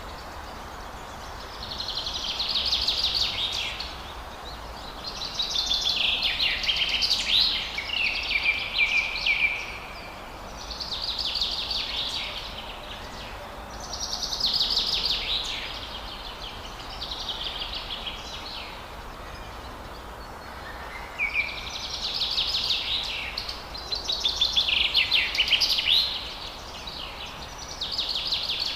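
Forest bird singing phrases of rapid trilled notes, each about two seconds long and repeated every few seconds, over a steady background hiss.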